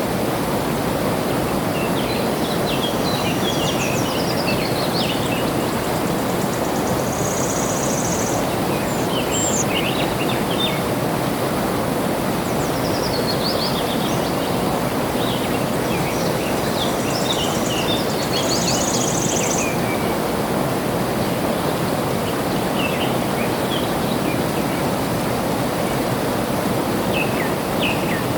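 Steady rush of flowing water, with small birds chirping in scattered bursts over it and two short, high buzzy trills, about 8 and 19 seconds in.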